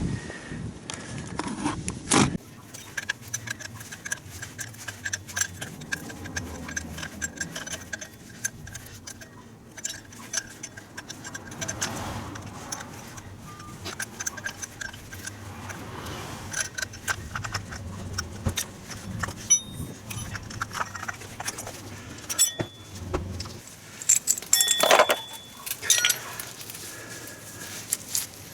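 Metal hand tools and parts clinking and clattering in irregular, sharp knocks, with a busier run of clinks near the end.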